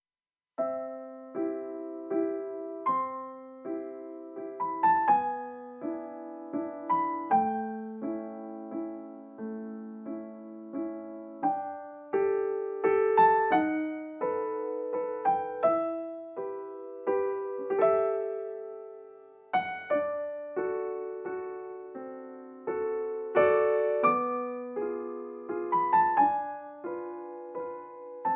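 Background music: a gentle solo piano piece of struck notes and soft chords, each note dying away.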